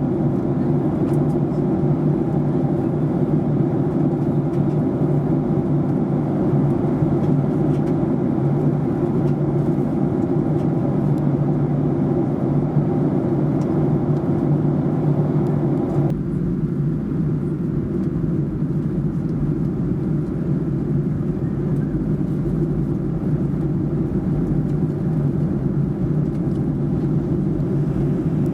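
Boeing 737-800 cabin noise in flight: the steady drone of the CFM56-7B engines and the airflow over the fuselage. About sixteen seconds in, the higher part of the noise drops away suddenly, leaving a lower rumble.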